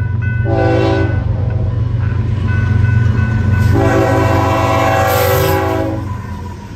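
Diesel locomotive horn sounding a short blast, then a long blast, over the steady low rumble of the passing train, with a bell ringing in short repeated strokes. The short-then-long pattern is the end of the standard grade-crossing signal.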